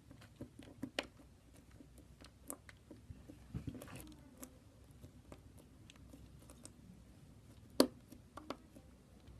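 Slime being squeezed and poked in the hands, making scattered small wet clicks and pops, with one louder pop about eight seconds in.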